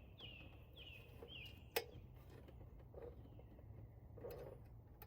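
Faint bird calls: a quick run of short chirps, each sliding downward, repeated about twice a second during the first second and a half. A single sharp click comes a little under two seconds in.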